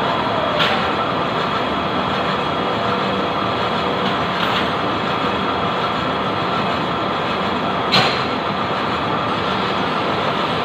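Lathe machine running with a steady mechanical noise, broken by two sharp metallic clicks, one about half a second in and a louder one about eight seconds in.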